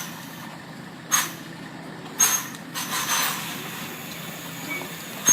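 Lorry's air brakes hissing in three short bursts about a second apart, the last one longer, over the steady low running of its engine.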